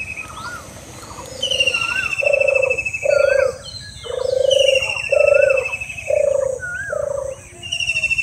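Birds calling: a long high trill repeating about every three seconds, short rising-and-falling whistles, and a run of low notes like coos.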